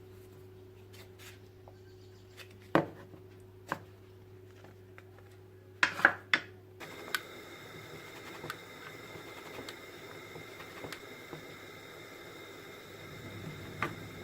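A few sharp knocks and clacks of objects being handled, loudest in a quick cluster about six seconds in, over a steady low electrical hum. About seven seconds in the background changes abruptly to a different steady hum with a faint high whine.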